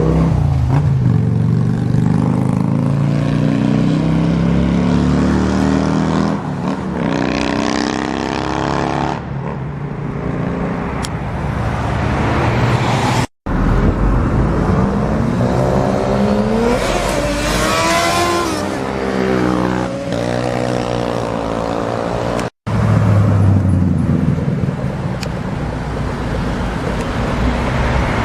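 Sportbike engines revving and accelerating, their pitch rising and falling, in three stretches broken by two abrupt cuts.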